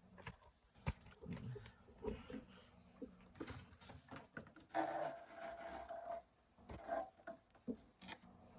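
Handling noises from a fan's box and paperwork: scattered light knocks and clicks, with a longer stretch of rustling and scraping about five seconds in.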